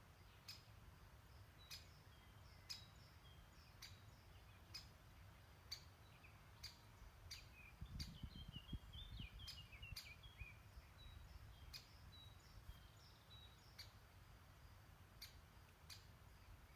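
Faint birdsong: a bird repeats a short, sharp call note about once a second, and a softer twittering song joins near the middle. A low rumble runs underneath and swells briefly around the middle.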